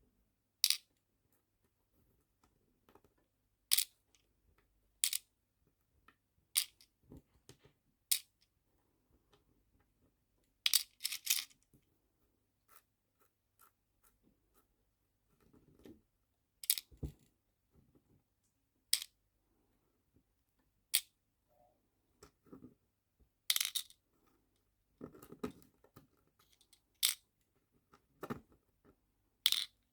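Tiny nail-art charms and small plastic storage boxes being handled: sharp, irregular clicks and taps, roughly one every second or two, with quiet between them.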